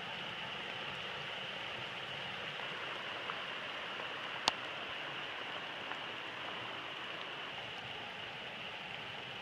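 Steady hiss of rain falling, with a single sharp click about four and a half seconds in.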